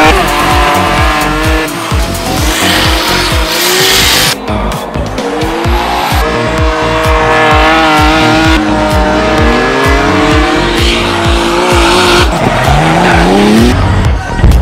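Drift cars sliding sideways: engines revving up and down several times and tyres squealing and skidding. Music with a steady beat plays underneath.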